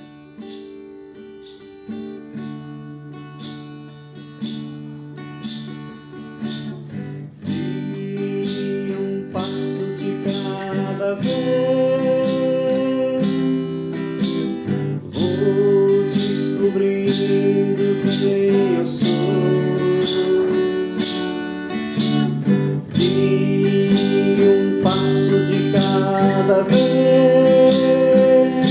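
Acoustic guitar strummed in a steady rhythm, growing louder over roughly the first ten seconds and then holding steady.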